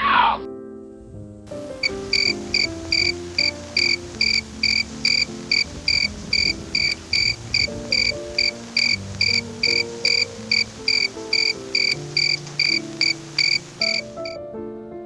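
A cricket chirping in a steady, even rhythm, about two to three short chirps a second, starting about a second and a half in and stopping shortly before the end, over soft background music. The loud tail of an animal call cuts off right at the start.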